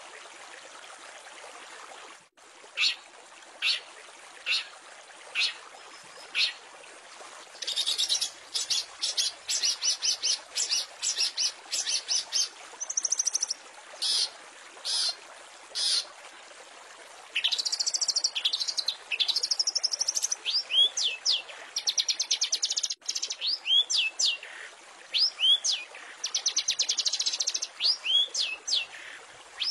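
Long-tailed shrike (cendet) singing: separate sharp high notes about once a second at first, then rapid trills and a run of quick curving whistles, over a steady hiss.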